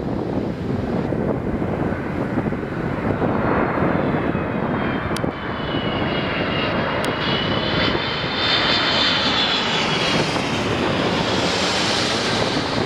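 Delta Airbus A330 twinjet airliner passing close on its landing approach: a steady jet-engine roar with a high whine that dips and rises in pitch, growing loudest about two-thirds of the way through.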